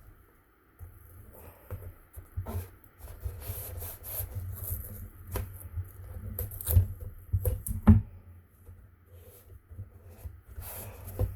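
Hands working masking tape onto a cardboard cracker box: rubbing and crinkling of tape and card, with scattered clicks and knocks as the box is handled, the loudest knock about eight seconds in.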